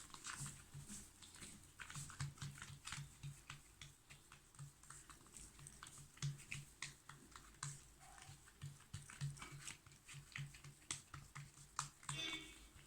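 Faint, irregular soft taps and light sticky clicks of fingers patting and pressing a ghee-smeared stuffed dough ball flat, with quick low pats recurring about three or four times a second.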